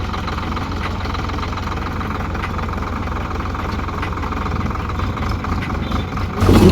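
Eicher 557 tractor's three-cylinder diesel engine running steadily with a fast, even low throb, then growing louder near the end.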